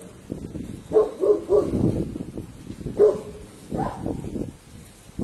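A dog barking: a quick run of three barks about a second in, then another bark about three seconds in.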